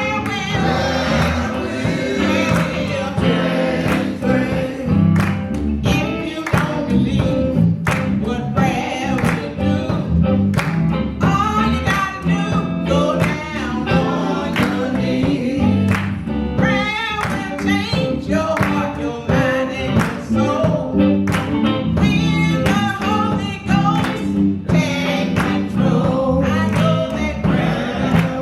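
Church choir singing a gospel song with band accompaniment and a drum beat.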